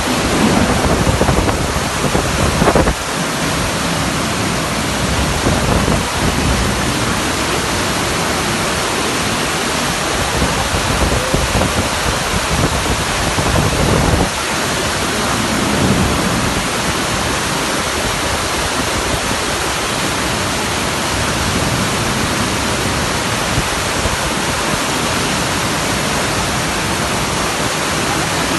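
Heavy rain and rushing water: a loud, steady wash of noise, with a few stronger surges in the first three seconds.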